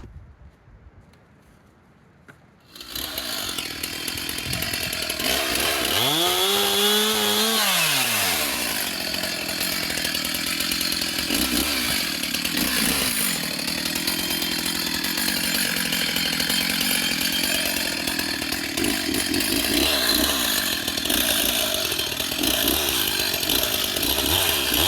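Chainsaw coming in suddenly about three seconds in after near silence, revving up and back down once, then running steadily.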